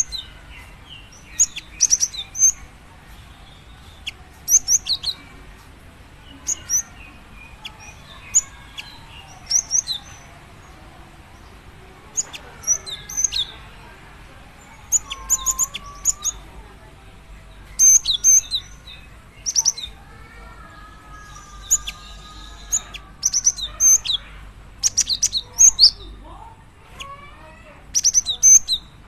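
Female cinereous tit (gelatik batu) giving short, high chirping calls in quick clusters, repeated every second or two: a female's call to draw a male.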